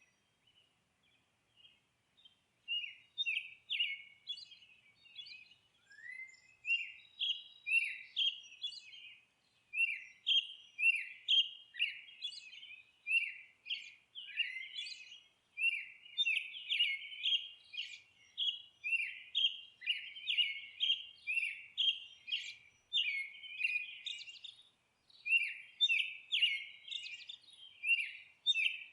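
Songbirds chirping and twittering in quick runs of short, falling notes, almost silent for the first couple of seconds and then nearly continuous, with several voices overlapping.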